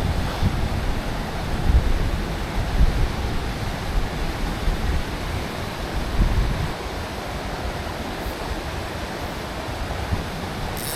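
Mountain stream water rushing steadily, with wind buffeting the microphone as uneven low rumbles for the first six or seven seconds.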